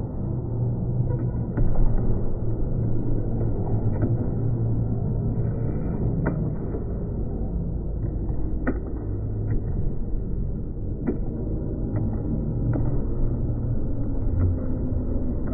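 Steady low rumbling noise with about ten short, sharp clicks or knocks scattered through it.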